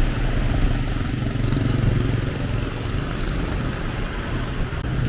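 Engine running steadily with a low hum, amid street traffic noise.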